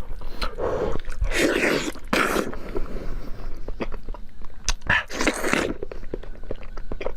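Close-miked eating of meat: biting and chewing, with many small wet clicks and two longer, louder stretches of chewing and crunching.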